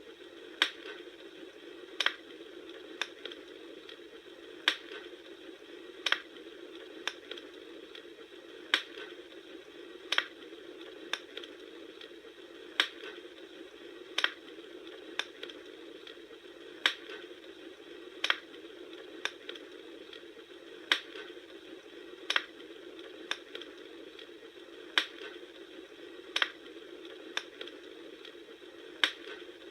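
Wood fire crackling: a steady hiss of burning with sharp pops about once a second.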